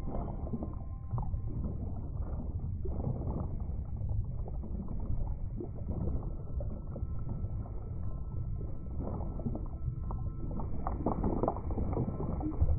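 Underwater ambience of the sea floor: a steady low rumble with irregular short swishes and bubbling sounds, a little busier near the end.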